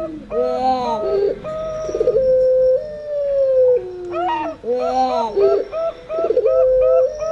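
Zebra doves (perkutut) and Barbary doves (puter) cooing together, their overlapping calls mixing long falling coos with short stepped notes, in a pattern that repeats about every four seconds.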